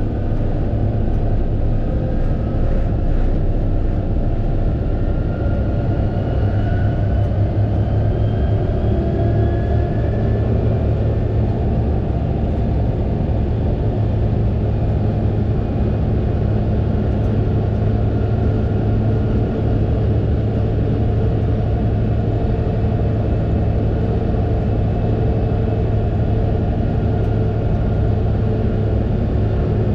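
Fendt 936 Vario tractor's diesel engine running steadily under load, with a deep even drone. Fainter higher whines glide slowly upward during the first ten seconds or so.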